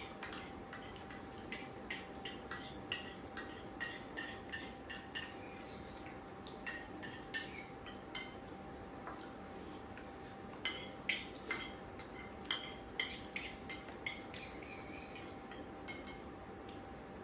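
Cutlery and dishes clinking irregularly while people eat, with a cluster of sharper clinks about eleven to thirteen seconds in. A faint steady hum runs underneath.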